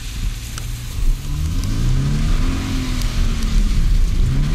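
Car engine revving up under acceleration, easing back, then climbing again near the end.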